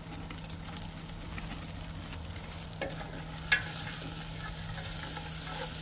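Onion, tomato and meat sizzling in a pot on a gas camping stove as whole spices and bay leaves are tipped in and stirred. The sizzle gets a little louder about three and a half seconds in, with a single clack, over a steady low hum.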